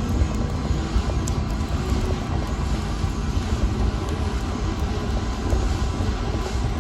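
Wood fire burning in a fireplace: a steady low roar of flames with a few small scattered crackles and pops.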